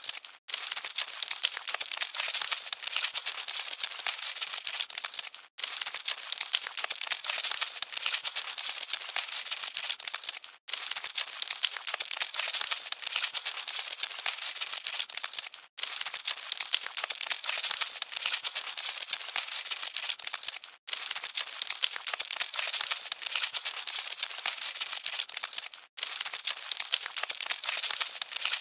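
Cockroaches scuttling: a dense, dry crackle of tiny clicks and scratches. A short recording loops, with a brief dropout about every five seconds.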